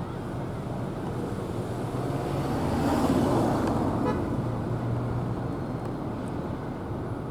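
A road vehicle passing by, its engine and tyre noise swelling to a peak about three seconds in and then fading, over steady traffic noise.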